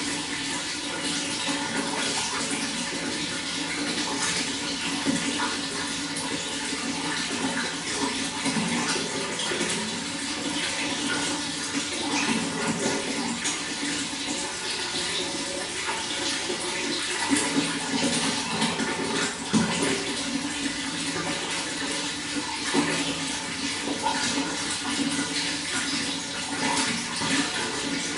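Running water flowing steadily, a continuous rush with many small splashes.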